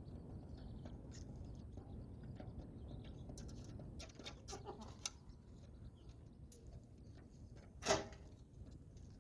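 Chickens calling softly among scattered small clicks and scratches, with one short, much louder call about eight seconds in.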